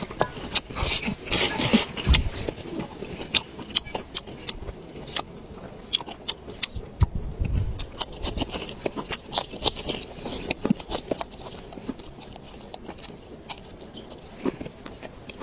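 Close-up eating sounds of a person chewing and biting food, with many short, sharp clicks and crackles coming thick in the first half and thinning out later.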